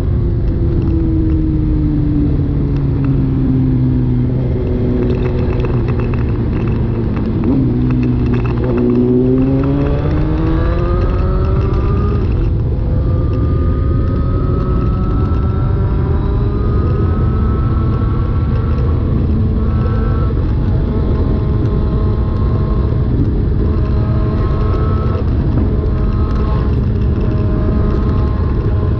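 Suzuki GSX-R1000's inline-four engine through an SC Project exhaust with the catalytic converter removed. Its note falls slowly over the first several seconds, rises sharply about nine seconds in, then holds a fairly steady pitch with small shifts.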